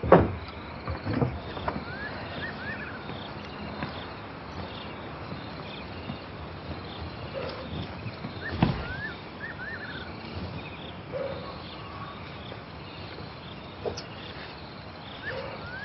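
Outdoor ambience: a steady hiss with a short run of rising chirps from a calling animal, repeated about every six seconds. A few sharp knocks fall in between, the loudest a little past halfway.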